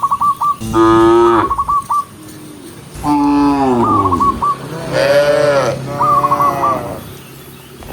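Several cows mooing in turn: four long, drawn-out moos. Between them a short, high chirping call repeats in quick runs of four or five notes.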